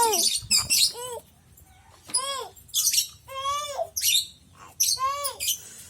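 A bird calling about four times, each call rising and then falling in pitch, with higher chirping between the calls.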